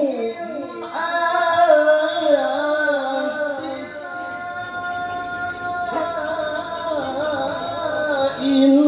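A Qur'an reciter's voice chanting a long, ornamented melodic phrase in tilawah style, the pitch wavering and sliding on held notes, amplified through a PA sound system. There is a brief dip in the voice about a second in, and then the phrase resumes.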